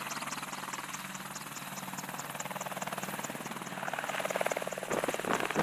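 AH-64E Apache attack helicopter running with a steady turbine whine and a regular rotor beat. About four seconds in the beat grows louder and heavier as power comes up for lift-off.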